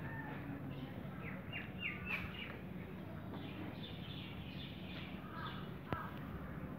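Small birds chirping: clusters of short, quick, downward-sliding chirps that come and go, over a faint steady low hum.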